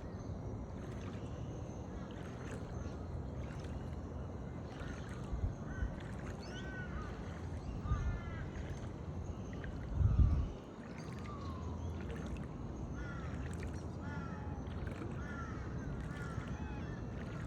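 Steady rushing outdoor noise with many short, repeated bird calls over it, and a few low thumps, the loudest about ten seconds in.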